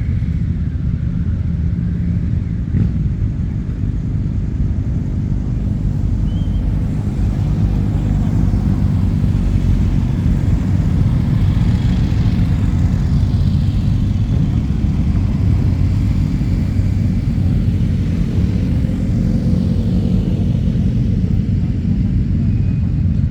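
Motorcycle engines running, a steady low rumble from several bikes, with a bike passing by around the middle, its pitch sliding as it goes.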